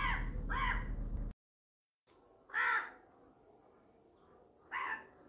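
A bird calling in short repeated calls, each about a third of a second: two in the first second over a steady low hum, then, after a second of dead silence, single calls about two and a half and five seconds in.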